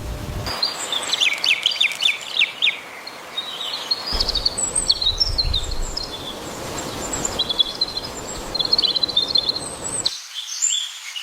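Small songbirds chirping: a quick run of about eight high, falling chirps in the first couple of seconds, then scattered high chirps and twitters over a steady background hiss.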